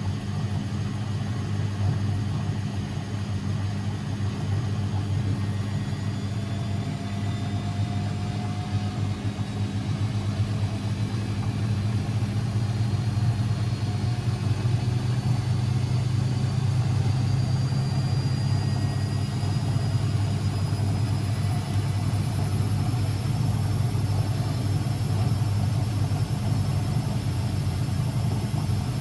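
Constructa Energy 1000s washing machine running, with a steady low motor hum and a faint high whine that slowly rises in pitch. It gets a little louder about halfway through.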